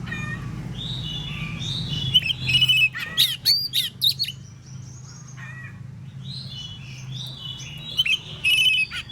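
Oriental magpie-robin (kacer) singing loud, varied phrases of clear whistles and fast chattering trills. The loudest bursts come about two to four seconds in and again near the end.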